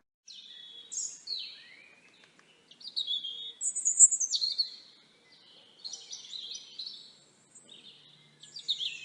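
Songbirds chirping and singing in short, varied phrases of high chirps and trills, with brief pauses between them.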